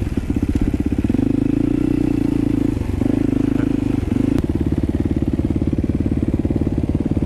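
Dirt bike engine idling with an even, rapid putter, freshly started after a reluctant start. A sharp click comes a little over four seconds in, and after it the putter sounds more distinct.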